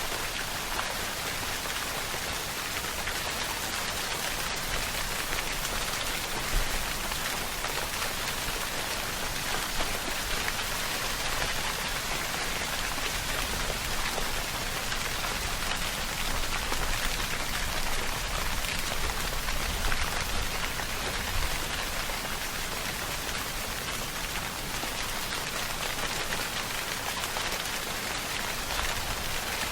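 Steady rainfall pattering on surfaces, an even hiss of many drops with no thunder.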